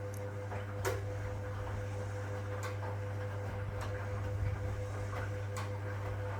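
1961 AEG Lavamat Noris washing machine running, a steady low mains hum from its motor with a sharp click every second or two.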